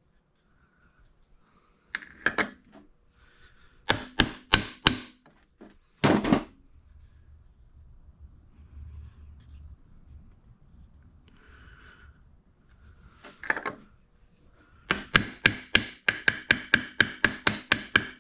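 Hammer tapping a seal drift to drive a crankshaft oil seal into a scooter engine case, metal on metal. The hits come singly and in short groups at first, then as a fast steady run of about four a second near the end, as the seal is seated.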